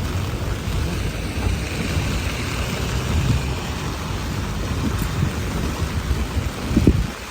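Steady rain falling, with a low, gusty rumble underneath. There is a thump just before the end, after which the rumble drops away.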